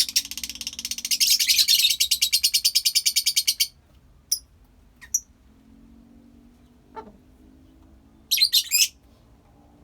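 Lovebirds chattering: a loud, fast chattering trill of shrill chirps for about three and a half seconds, then a few single chirps and a short burst of chirps near the end.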